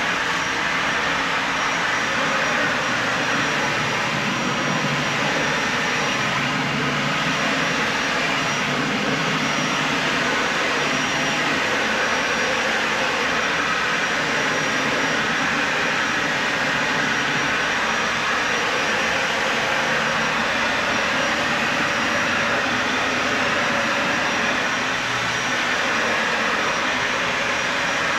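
Dyson Ball Animal 3 upright vacuum cleaner running steadily over carpet: an even, unbroken rushing of its motor and airflow.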